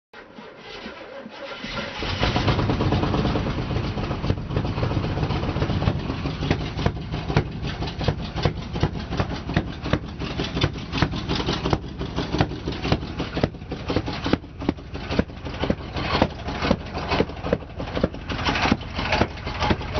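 1987 GMC Sierra 1500 pickup's 350 V8 with a Holley four-barrel carburetor running at idle. It grows louder over the first two seconds, then runs on with an uneven, pulsing beat.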